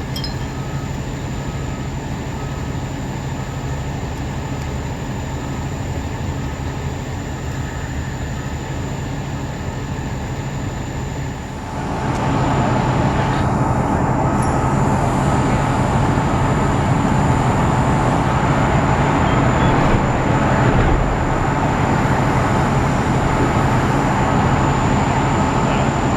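Heavy diesel trucks running steadily with a constant engine hum. About twelve seconds in, the machinery noise steps up and grows louder, then holds.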